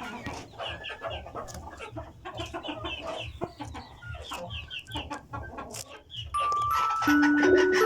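Desi chickens: chicks giving rapid high peeps over hens' low clucking. Music with chiming tones comes in loudly about three-quarters of the way through.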